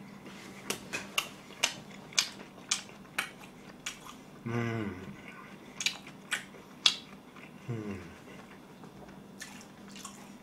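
Close-miked chewing of sauced fried chicken: wet mouth smacks and sharp clicks at an irregular pace. A short hummed voice sound comes about four and a half seconds in, and another just before eight seconds.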